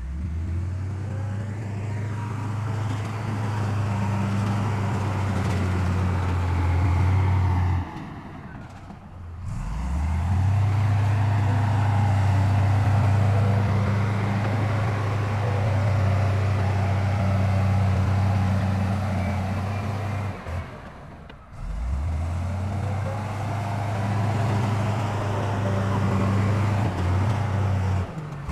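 Heavy diesel engine of earthmoving machinery running steadily at a constant low pitch. It drops away twice, briefly about eight and twenty-one seconds in, then returns.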